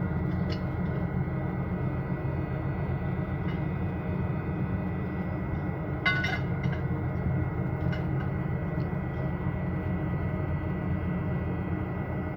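Steady low hum of a cargo ship's engine and machinery, with a few short metallic knocks; the loudest, about six seconds in, rings briefly.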